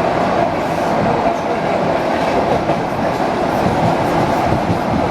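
ED4M electric train running between stations: a steady noise of wheels on the track.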